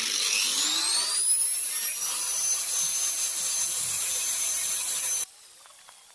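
Angle grinder spinning up with a rising whine, then running steadily at full speed over a hiss of grinding, for taking a flange off a steel exhaust pipe. It cuts off suddenly about five seconds in.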